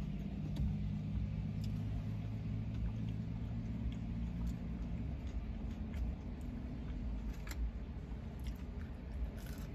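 Chewing and biting on a McDonald's chicken nugget, with occasional short clicks. Under it, a steady low hum in the car cabin drops away about halfway through.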